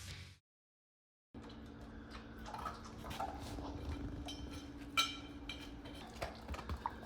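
Closing music fades out, then about a second of silence. After that comes a dog eating from its bowl: scattered light clinks and taps over a steady low hum, the sharpest clink about five seconds in.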